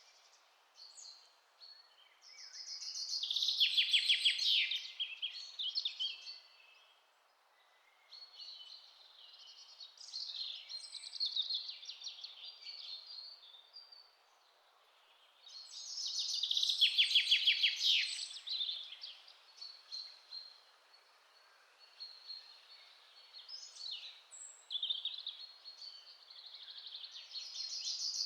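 Songbirds singing in a forest, several bursts of high chirping song with fast trilled passages, over a soft steady background hiss. The fullest song phrases come about three seconds in, around the middle and again near the end.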